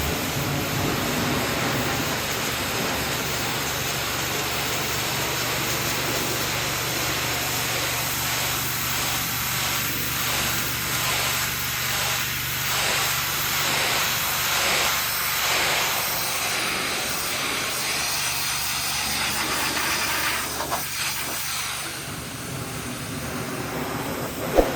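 Pressure washer spraying a high-pressure water jet onto a muddy truck: a steady hiss of spray, with a low hum underneath that fades near the end.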